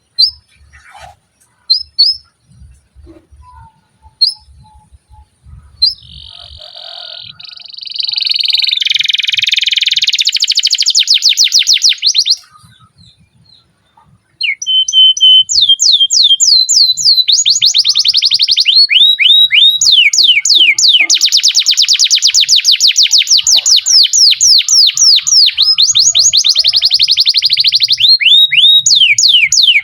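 Domestic canary singing. A few short chirps give way, about six seconds in, to a buzzy trill and then rapid rolling trills. After a short pause near the middle, a long, unbroken run of fast repeated trill notes follows.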